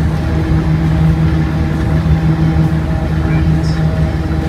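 Land Rover Defender's engine droning steadily at constant road speed, heard from inside the cabin.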